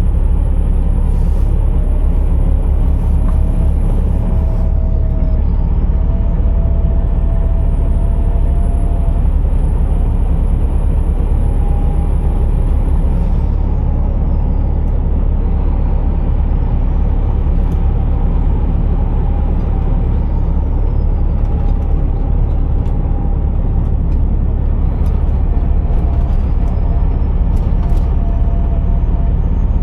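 Scania R480 truck's six-cylinder diesel engine running steadily with a strong low rumble, heard from the cab. A faint high whistle rises, holds and falls away four times over the engine, and its middle tones shift in steps.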